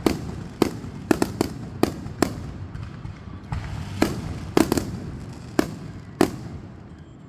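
Fireworks going off: about a dozen sharp bangs at irregular intervals, some in quick clusters, over a low rumble that fades near the end.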